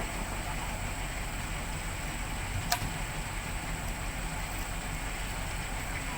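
Heavy diesel engine idling steadily, with a single sharp click near the middle.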